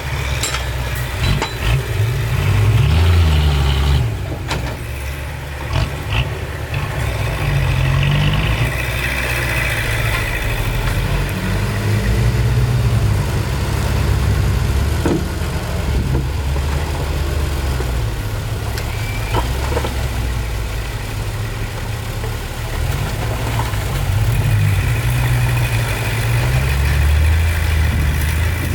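Heavy diesel engines of dump trucks and a bulldozer running, their pitch rising and falling as they rev, with a few brief knocks.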